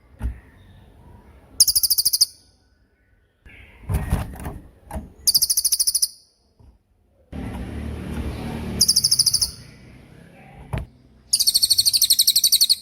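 Mountain tailorbird (cililin) singing: four loud, very fast, high-pitched trills a few seconds apart, the last one the longest. Quieter, lower rustling noises fall between the trills.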